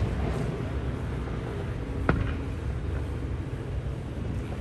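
Aerial fireworks: the echo of a shell burst dies away, then a single sharp bang of another shell about two seconds in, over a steady low background rumble.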